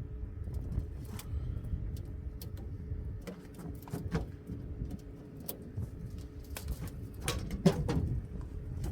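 Scattered clicks and knocks of a wire bait trap being handled and rattled, with a cluster of sharper knocks near the end, over a low steady rumble.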